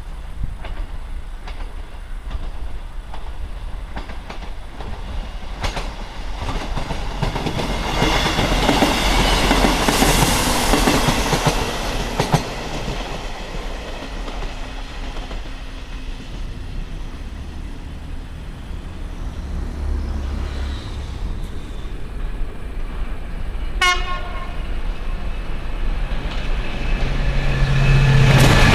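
An East Midlands Trains Class 158 diesel multiple unit passes at speed, its running and wheel noise swelling and fading over several seconds. Later a GBRf Class 66 diesel-electric locomotive hauling container wagons approaches, its engine drone growing louder near the end, with a short horn note a few seconds before.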